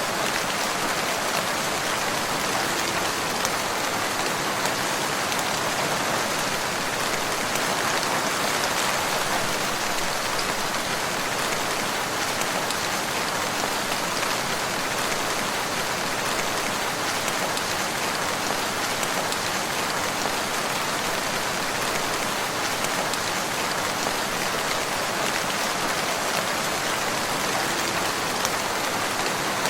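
Steady rain falling on a surface, a constant hiss of drops with faint individual drop ticks now and then.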